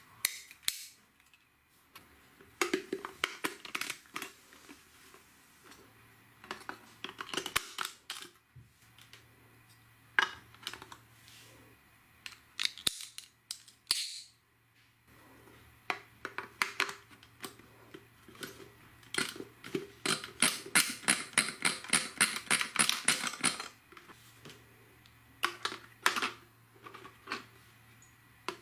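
LEGO bricks clicking and rattling as they are handled and snapped together, in bursts of sharp clicks with a long run of rapid clicks about twenty seconds in.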